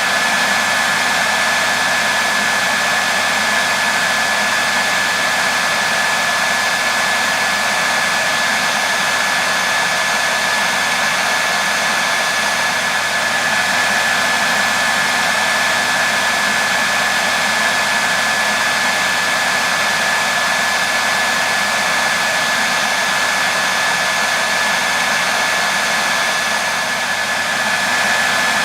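Hair dryer running steadily, its fan and air rush a constant hiss with a high whine, used as continuous white noise. It dips slightly in loudness near the end.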